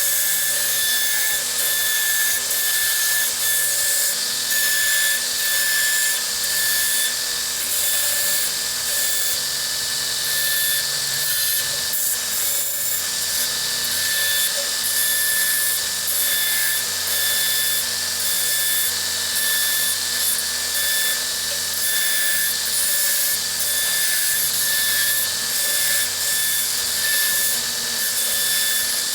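Electric power tool running continuously in a metal shop, with a steady high whine over a hissing noise.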